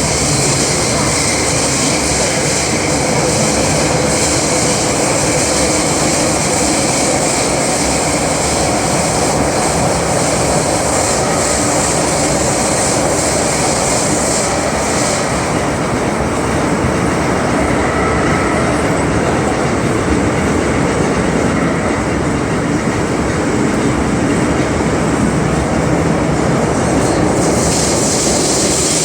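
Inside the cabin of an MTR M-Train running between stations: a steady, loud rumble of wheels on rail and traction equipment. The high hiss drops away about halfway through and comes back near the end.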